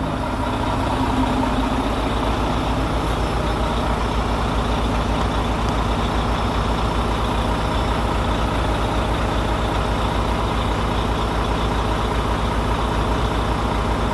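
Volvo semi truck's diesel engine idling, a steady, even low pulsing.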